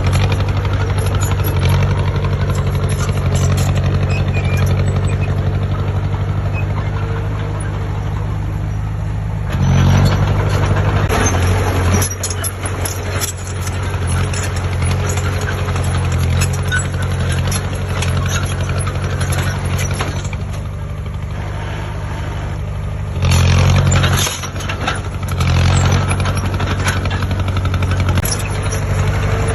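Heavy diesel engine of earthmoving machinery running steadily with a low hum. It grows louder for a second or two about ten seconds in, and twice more in the last several seconds.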